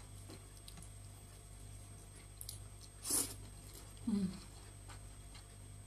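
Close-up mouth sounds of a person chewing a mouthful of rice and chicken curry, with faint small clicks, a sharp smack about three seconds in and a short low sound a second later.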